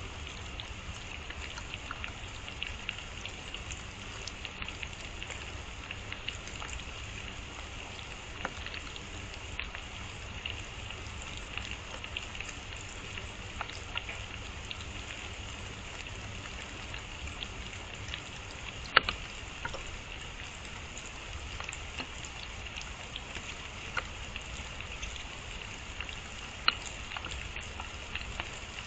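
Steady rain falling through woodland, with scattered drops ticking on leaves and surfaces and one sharp, louder tap about two-thirds of the way through.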